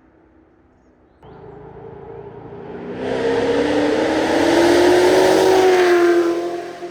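Chevrolet Camaro ZL1's supercharged V8 exhaust under hard acceleration. It starts suddenly about a second in, and the engine note climbs as it gets louder, peaking around five seconds in before fading near the end.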